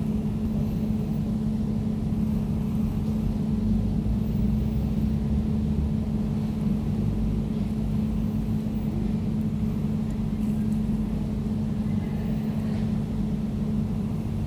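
Air conditioner running steadily: a low, even hum with a strong steady tone under a soft rushing noise.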